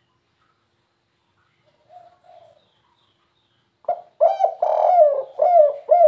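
Spotted dove (tekukur) cooing. A faint two-note coo comes about two seconds in, then a loud run of quick, falling cooing notes starts about four seconds in.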